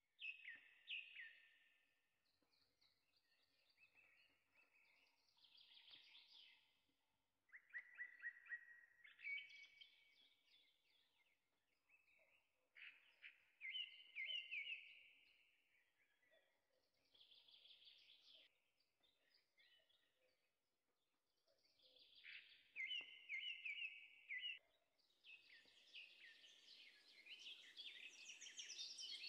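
Faint birdsong: short phrases of rapid chirps and trills every few seconds, growing denser and busier near the end.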